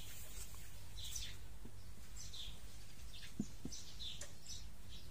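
Small birds chirping: short, high, falling calls a few times a second over a low steady hum, with one light tap a little past halfway.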